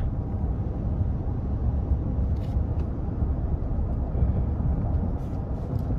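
Steady low rumble of road and wind noise inside the cabin of a Toyota Tundra Capstone pickup cruising at about 50 mph, with a few faint light ticks.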